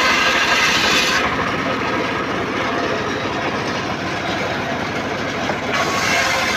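Engine-driven saw running and cutting teak wood. The bright sawing noise eases about a second in while the engine keeps running, then picks up again near the end.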